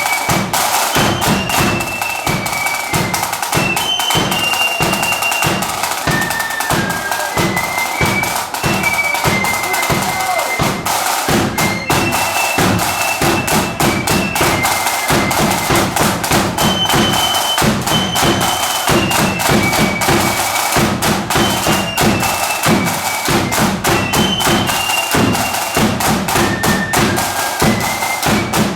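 Marching band playing a tune: a high melody line over rapid, continuous drumming with bass drum.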